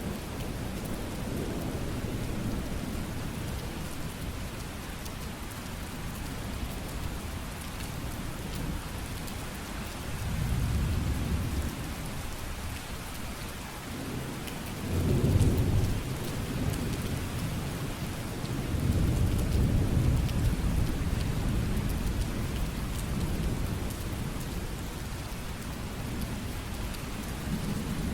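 Steady heavy rain hiss with rolling rumbles of thunder swelling and fading three times, the loudest about halfway through.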